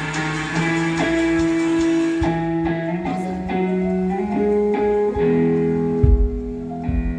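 Band playing an instrumental passage: guitar notes over held chords that change every second or so, trying the song in its original key, with a few low drum thumps near the end.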